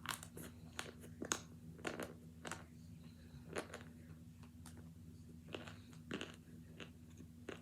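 Close-up crunching and chewing of hard frozen chunks of cornstarch and baby powder: about a dozen sharp, irregular crunches as the chunks are bitten and ground between the teeth, over a steady low hum.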